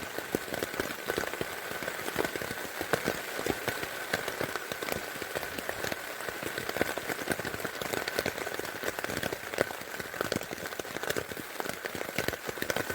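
Heavy rain falling on a tent, heard from inside: a dense, steady patter of countless drops on the fabric, with a faint steady tone underneath.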